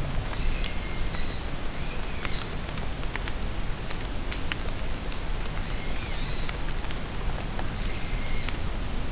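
Steady rain falling in a forest, with scattered drips striking close by, while a bird sings four short phrases of about a second each, high-pitched.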